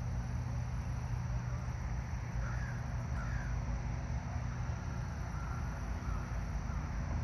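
A bird calling, two short calls about a second apart with fainter calls after them, over a steady low rumble.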